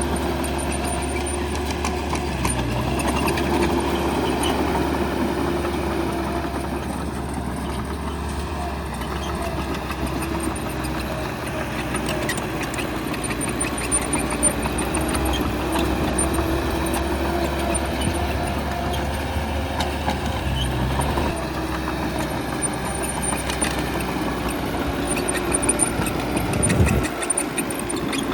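Bulldozer's diesel engine running steadily at work, its pitch and loudness wavering a little with load, with a brief louder surge near the end.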